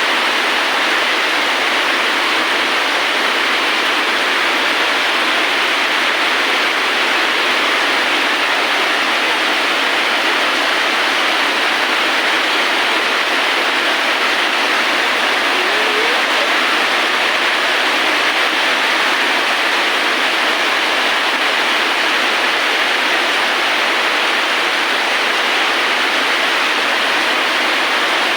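Steady, heavy rain: a loud, even hiss with no breaks or swells. About halfway through, a faint, short rising chirp.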